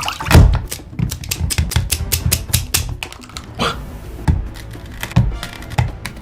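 Crisp crunching of food being chewed close to the microphone, a quick run of sharp clicks and crackles, with a heavier bite about half a second in.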